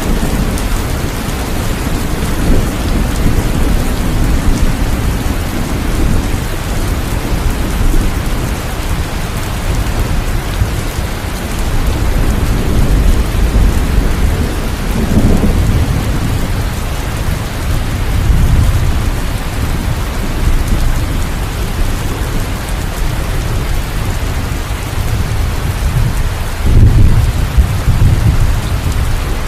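Steady heavy rain with thunder rolling, low rumbles swelling and fading several times, the loudest near the end.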